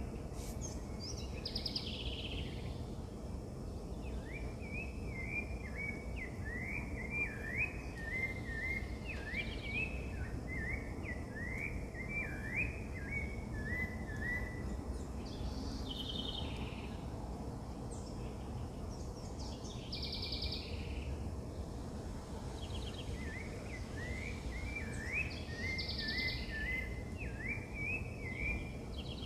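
Wild birds calling over a steady low background noise. One bird gives a quick series of short chirps that lasts about ten seconds and comes back near the end. Shorter, higher calls break in now and then.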